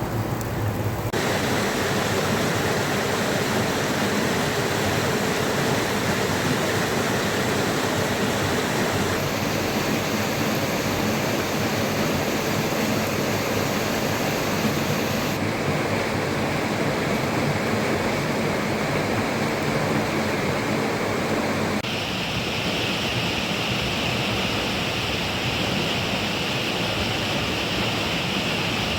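Steady rushing water noise of rain and river, with its tone changing abruptly several times as the recording cuts between takes.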